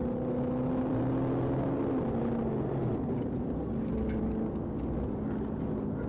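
A vehicle engine running steadily, its pitch rising slightly and then falling back within the first couple of seconds.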